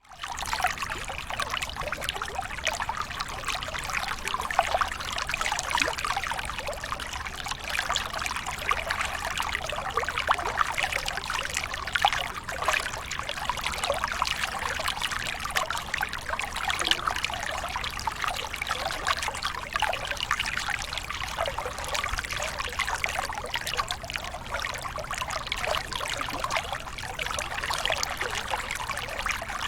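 Water pouring and trickling steadily down a small waterfall: an even, splashing rush with fine crackle and little low rumble.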